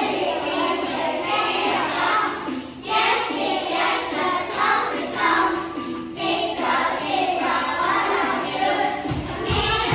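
A group of young children singing together with musical accompaniment.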